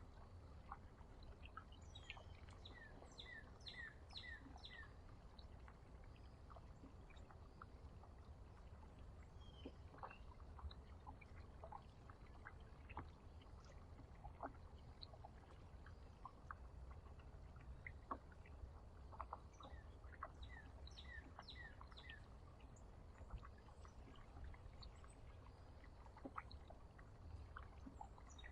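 Small songbirds chirping faintly in short runs of four or five quick falling notes, heard a few times, with scattered faint clicks and taps over a low steady rumble.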